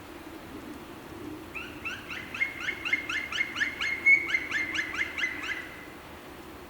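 A bird singing: a fast run of short falling notes, about six a second, with a steady whistled tone held under them, lasting about four seconds, over a steady background hiss.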